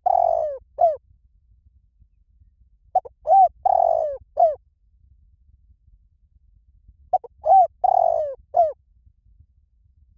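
Spotted dove cooing: a phrase of four or five low coos, one drawn out longer, repeated about every four seconds. The phrase is heard twice in full, with the tail of another right at the start.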